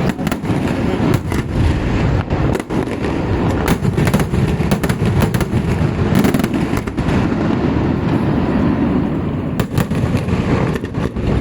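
Fireworks going off: a dense run of sharp bangs and crackles over a low rumble, thinning to a few scattered bangs in the last few seconds.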